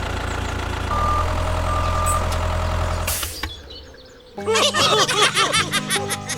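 Tractor engine running steadily with a couple of short beeps, fading out about three seconds in. It is followed by bouncy cartoon-style music with springy rising-and-falling tones.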